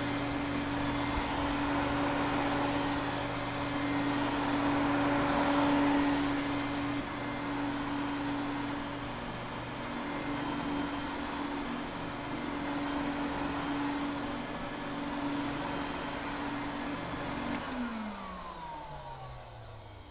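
Vacuum cleaner motor running steadily with a rushing airflow and a steady hum. About 18 s in it is switched off, and the pitch falls as the motor spins down.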